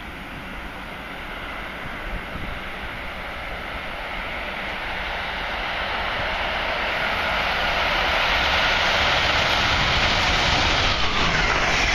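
Electric passenger train approaching at speed along the track, a rushing rail and wheel noise growing steadily louder as it nears, loud and close by the end.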